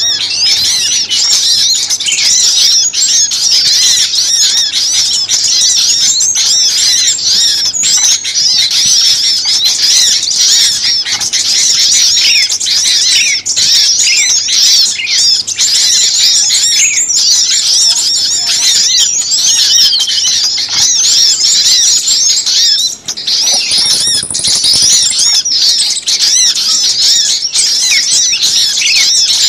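A loud, dense chorus of many small songbirds chirping and twittering over one another without a break: a bird-lure (pikat) recording of noisy small-bird calls used to draw birds in. The chatter drops out for a moment about three-quarters of the way through, and a thin, high note sounds just after.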